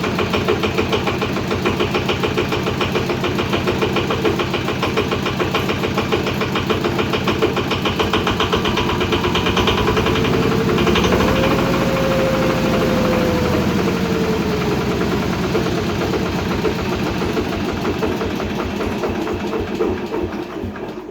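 Yanmar 105 single-cylinder diesel engine running with a fast, even chugging beat. About halfway its pitch rises and then eases back down over a few seconds.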